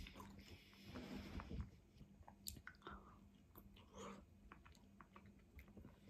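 Faint, close-up chewing and wet mouth sounds of a person eating a soft fried egg with saucy rice noodles, with scattered small clicks.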